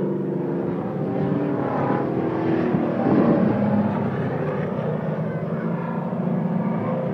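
Several stock-car engines running together at racing speed around a short oval, their pitches overlapping, growing a little louder about three seconds in as cars come nearer.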